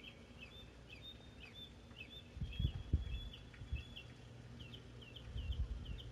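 Songbirds chirping: a steady stream of short, high notes, ending in a quick run of four alike notes. Low rumbles swell briefly twice, about halfway through and near the end.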